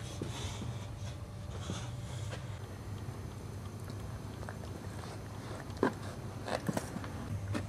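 Boxer dog breathing noisily in its sleep, with two breathy snoring exhales near the start. A few short mouth clicks and smacks follow about six seconds in.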